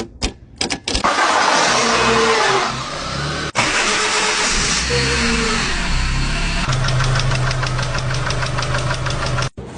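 Car engine running, cut into two short clips. In the last few seconds it runs with a steady hum and a rapid, even ticking above it, then cuts off abruptly.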